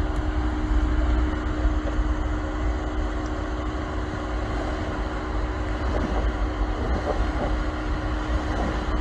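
Off-road vehicle's engine running steadily at low revs: a steady hum over a low rumble, with no rise or fall in pitch.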